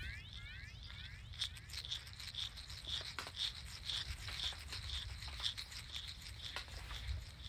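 Outdoor ambience: a small bird repeating a short high note about twice a second, over a steady low rumble, with a few scattered clicks.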